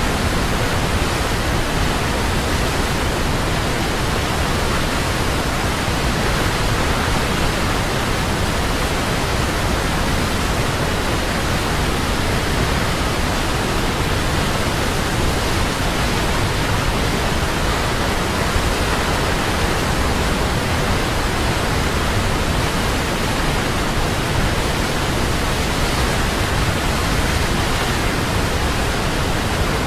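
Large waterfall: water falling, a steady, loud, unbroken rush.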